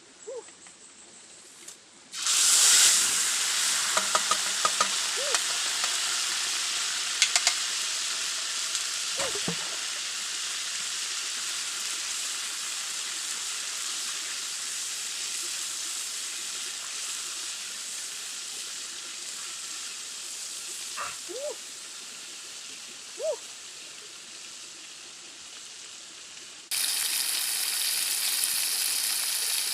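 Food sizzling as it cooks: a steady hiss that starts suddenly about two seconds in and slowly fades, with a few clicks and pops. It jumps louder again near the end.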